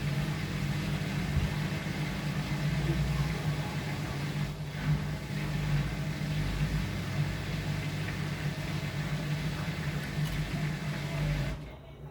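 Hotpoint NSWR washing machine running with a steady low hum, the unexplained noise its owner calls weird; it cuts off suddenly near the end.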